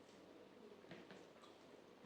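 Faint eating sounds: a few soft, wet clicks of chewing over quiet room tone, the clicks clustered about a second in.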